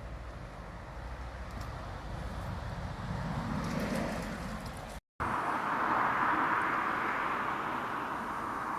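Road traffic: a passing vehicle's rumble swells to its loudest about four seconds in. After a brief dropout at an edit just after five seconds, a steady hissing rush follows.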